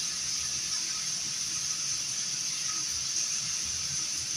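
A steady hiss, brightest in its high, thin part, with no other events.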